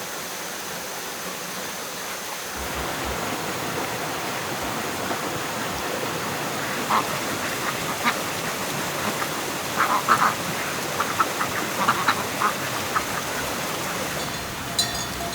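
A steady rushing noise, a little louder after a couple of seconds, with a series of short animal calls in the middle, most of them bunched around 10 to 12 seconds in.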